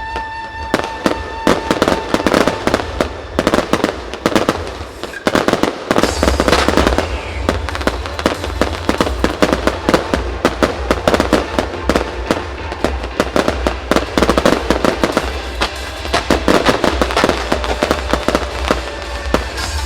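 Aerial fireworks going off in a rapid, continuous barrage of bursts and crackles, many per second, with a deep rumble underneath from about six seconds in.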